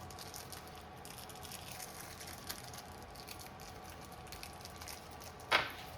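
Faint clicks and light handling noises as a generator's recoil starter housing is set onto the engine, with one short louder rustle near the end.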